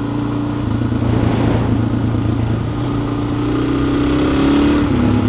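Motorcycle engine running under way; its pitch climbs steadily from about three seconds in and drops back just before the end.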